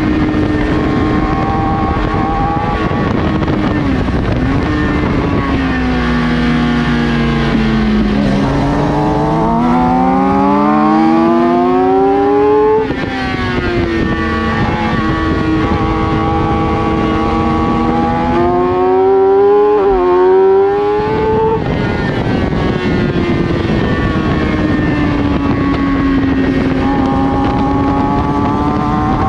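Racing sportbike engine under load on track. It holds a steady pitch, then from about eight seconds in climbs hard through the revs, drops sharply on an upshift around thirteen seconds, climbs again to about twenty-one seconds and then falls away as the bike slows, easing back to a steady note near the end.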